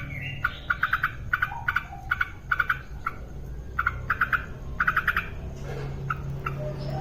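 Yellow-vented bulbul calling: quick clusters of three to five short, bubbly notes, repeated about every half-second to a second, over a steady low hum.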